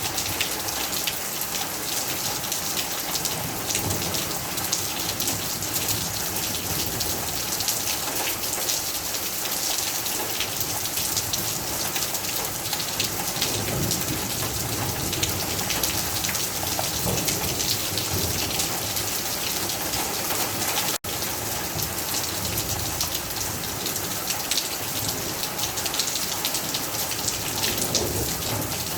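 Heavy rain falling steadily, a dense patter of drops on surfaces. It breaks off for an instant about two-thirds of the way through.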